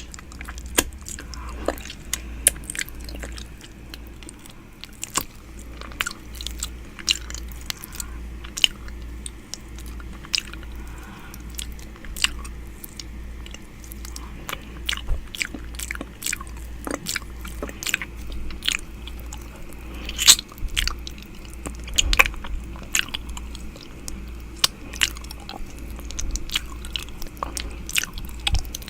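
Close-up ASMR 'ear eating' mouth sounds: irregular wet clicks, smacks and nibbling right against a microphone's ear, over a low steady hum.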